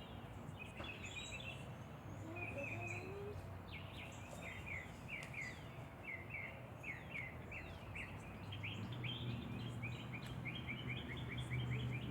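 Small birds chirping: a steady run of short, quick, downward-sliding notes, several a second, over a low steady hum.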